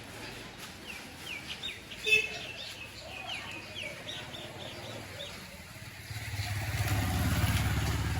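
A bird calling in a run of short, quick downward chirps, with a sharp click about two seconds in. Then a motor vehicle engine grows louder over the last two seconds and is the loudest sound.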